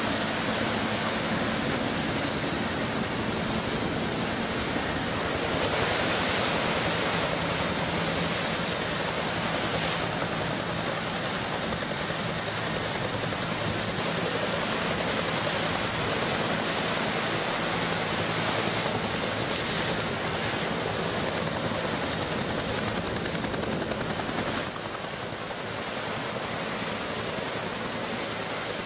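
Steady rushing noise with a faint low hum underneath, dropping slightly in level near the end.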